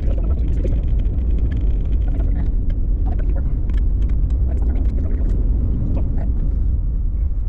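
Steady road and engine rumble inside a moving car's cabin, with scattered faint ticks over it.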